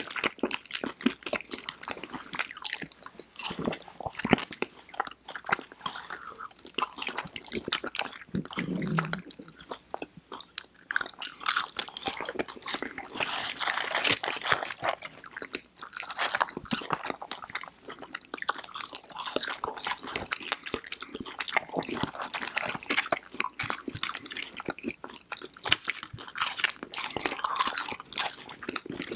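Close-miked chewing and crunching of fried chicken fingers and crinkle-cut fries, with many crisp crackles from mouths working on fried breading.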